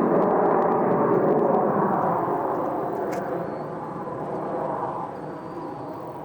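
Military jet flying past, its engine noise fading steadily as it moves away.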